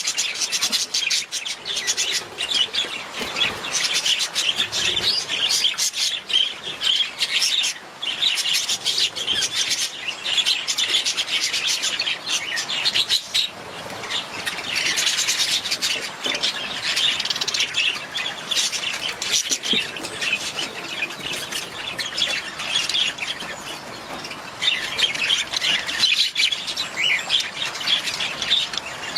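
Budgies (budgerigars) chattering and warbling, a dense, continuous stream of quick chirps and tweets from several birds at once.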